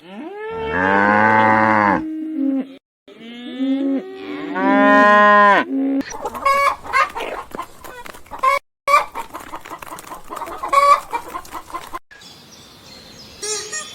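Cow mooing twice in two long, drawn-out calls, followed by a flock of chickens clucking in many short, irregular calls.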